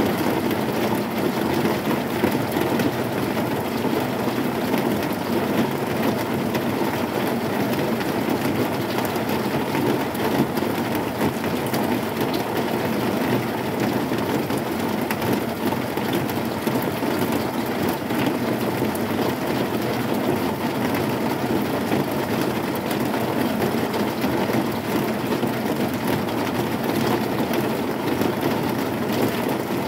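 Heavy rain falling on a corrugated zinc roof: a dense, steady patter of drops on the metal sheets, with no thunder.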